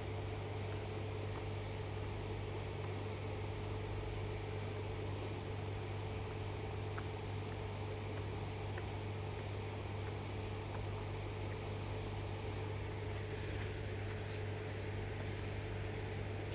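A steady, unchanging low mechanical hum with a faint steady tone above it, and a few faint, brief high chirps now and then.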